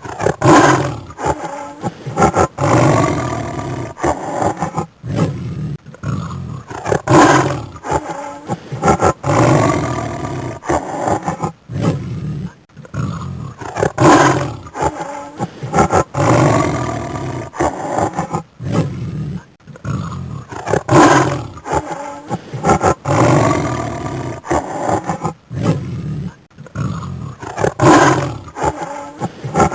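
A big cat roaring over and over: a loud roar about every seven seconds, with shorter calls between them.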